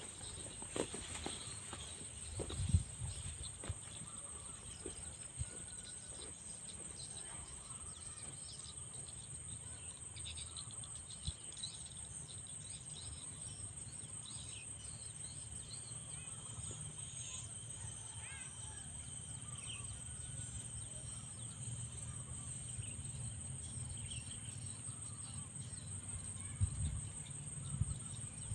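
Steady high-pitched insect drone, a cricket- or cicada-like trill, with faint bird chirps here and there and a few soft low knocks, the loudest about three seconds in and near the end.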